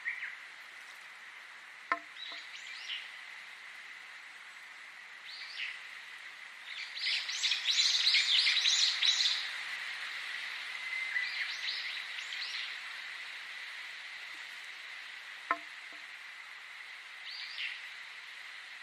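Songbirds chirping in short repeated calls, with a dense burst of rapid chirping about halfway through over a steady background hiss. Two sharp clicks stand out, one early and one near the end.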